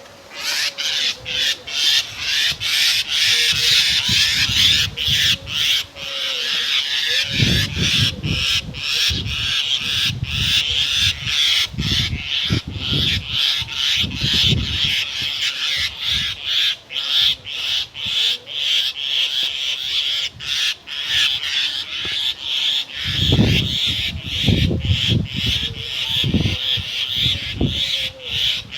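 Birds calling continuously over a dense, high, hissing chorus that is chopped by many short breaks, with low rumbles at a few points.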